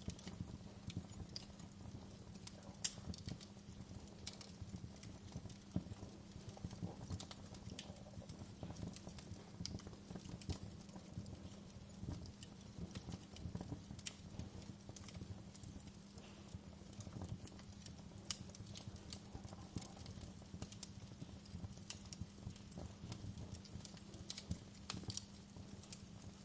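Wood fire crackling: irregular sharp pops and snaps, scattered unevenly, over a low steady hum.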